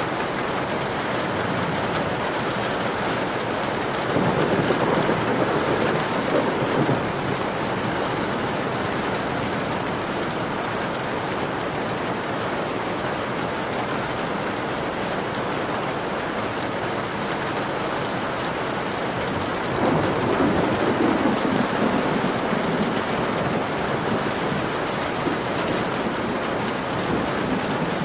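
Steady heavy rain falling on a window pane, with two low rolls of thunder, one about four seconds in and one about twenty seconds in.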